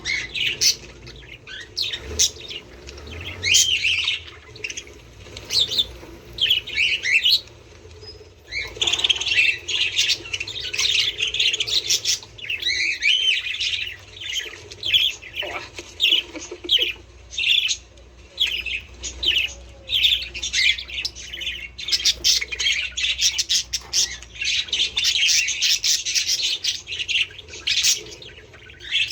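Budgerigars chattering: many rapid warbling chirps and squawks overlapping, with a brief lull about eight seconds in.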